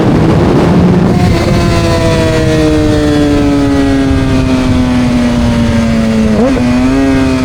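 Suzuki GSX-R750 inline-four with Coffman slip-on exhausts, ridden: a loud rush of engine and wind in the first second, then the engine note sliding slowly down in pitch as the bike slows off the throttle. About six and a half seconds in the pitch briefly dips and jumps back, as on a gear change.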